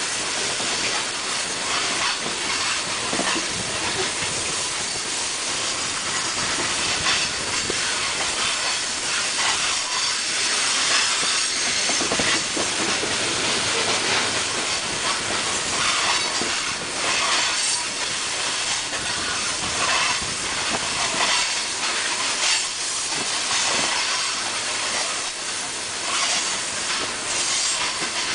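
A CSX freight train's hopper cars rolling past: steel wheels run on the rails with a steady noise, broken by repeated clacks as the wheels strike the rail.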